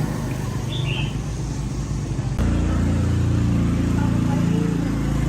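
Small motorbike engine running; about halfway through it becomes suddenly louder and fuller.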